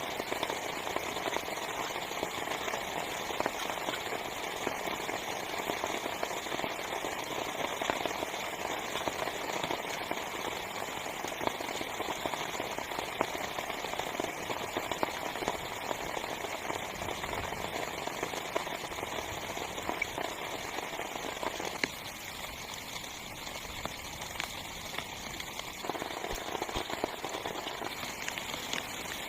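Heavy rain drumming on a small tent's fabric: a steady dense hiss full of fine crackling drop hits. It eases a little for a few seconds about three-quarters of the way through, then returns.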